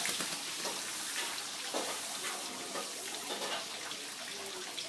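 Running water hissing and splashing steadily, the water of a pet lory's bath.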